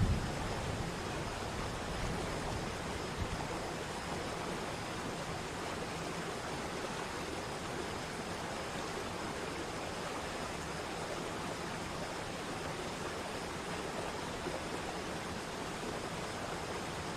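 Mountain waterfall's falling water rushing in a steady, even roar.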